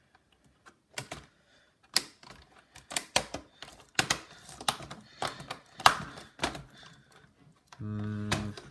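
Irregular sharp clicks and knocks of plastic laptop case parts being handled and pressed to snap into place, with a short low hummed voice sound near the end.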